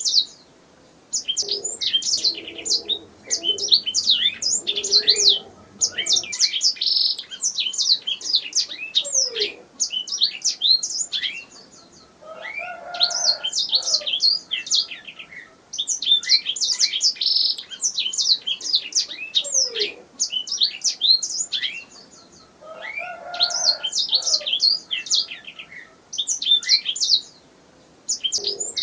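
Domestic canary singing: long, rapid phrases of high chirps and trills, broken by short pauses between phrases.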